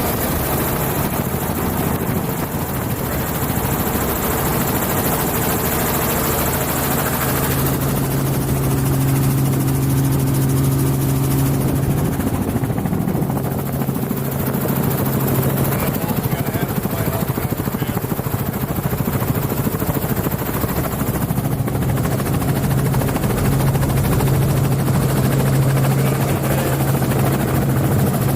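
Helicopter cabin noise: a loud, steady drone of turbine and rotor, with a constant low hum under a wide rushing noise.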